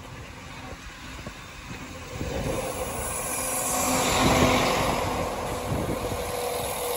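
Northern Class 195 diesel multiple unit passing, growing louder from about two seconds in, loudest around four seconds, then easing off.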